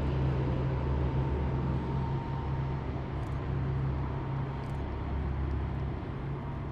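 Heavy military vehicles of a parade column driving past, their engines making a steady low drone over road noise with a faint whine above it.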